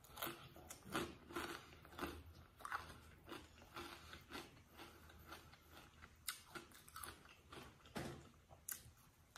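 Close-miked chewing of a sandwich, with soft wet mouth clicks and smacks about two to three times a second. A stronger bite into the sandwich comes about eight seconds in.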